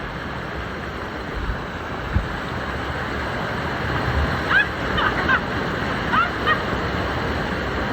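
Steady rush of water cascading over the rocks of a waterfall.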